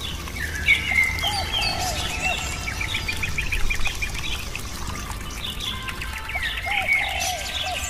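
Birdsong: several birds chirping and calling, with a fast trill about two to three seconds in and lower arched calls repeating, over faint sustained tones.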